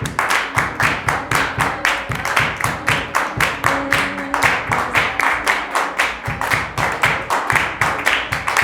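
A group of people clapping together in a steady, even rhythm, about four claps a second, with faint music underneath.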